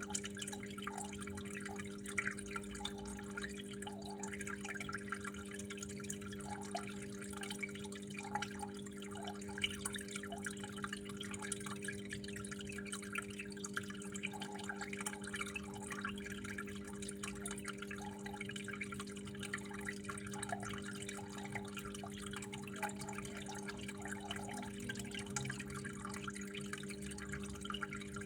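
Water dripping and trickling in many small, irregular drops, over a steady low hum.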